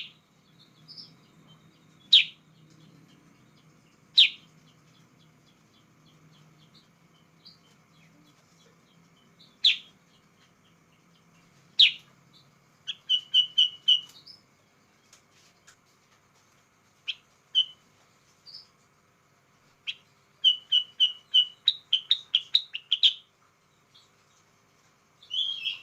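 Sooty-headed bulbul (kutilang sutra) calling: loud, sharp single chirps every couple of seconds, then two quick runs of rapid notes.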